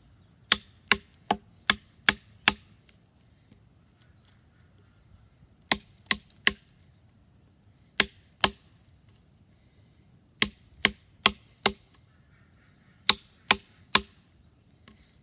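A wooden tomahawk handle used as a baton, hammering the spine of a small fixed-blade knife to drive it through a piece of wood. Sharp knocks with a short ring come in quick runs of about two or three a second: six, then three, two, four and three.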